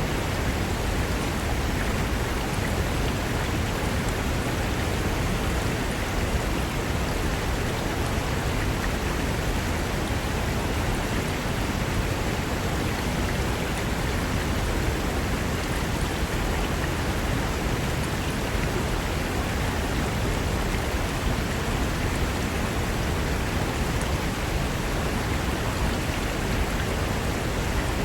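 Mountain river rushing over rocks: a steady, unbroken roar of running water.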